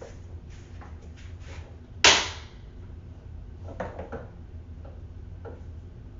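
A sharp hard-plastic click on the Ryobi One+ cordless wet/dry vacuum about two seconds in, followed by a few lighter clicks and knocks. The vacuum's motor does not run.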